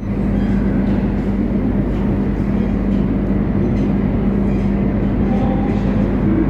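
Moscow metro train running, a steady low hum over dense rumbling noise, with faint short squeaks now and then.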